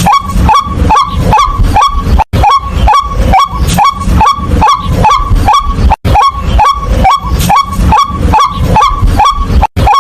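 White-breasted waterhen calls: a steady, loud run of short, rising 'kwak' notes about three a second, with brief breaks every few seconds as the recording repeats.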